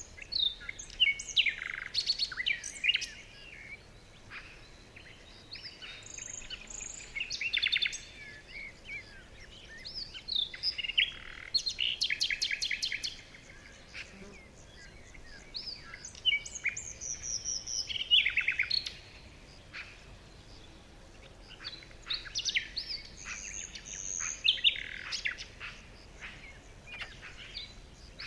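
Several songbirds singing and chirping in bursts, with fast trills and whistled phrases, over a faint steady hiss.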